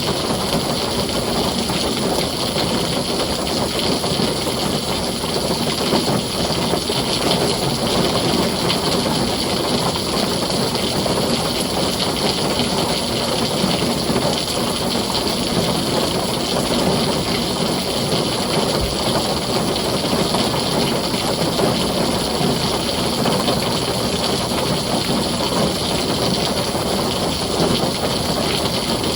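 Heavy rain falling steadily on a tin roof, a dense, even hiss with no thunder clap standing out.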